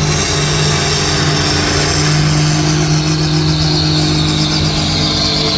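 Pulling tractor's engine running hard at high, steady revs under full load as it drags the sled down the track.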